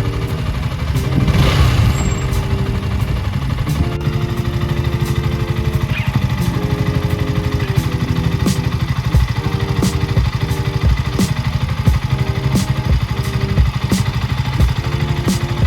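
KTM Duke 200's single-cylinder four-stroke engine idling with a steady low pulse, swelling briefly about a second and a half in.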